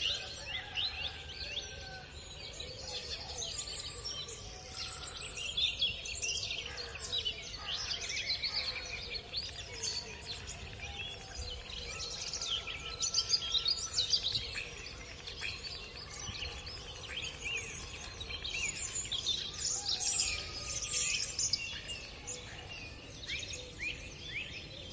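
A chorus of small birds singing and chirping, many short high calls and trills overlapping, over a steady low background hum of outdoor noise.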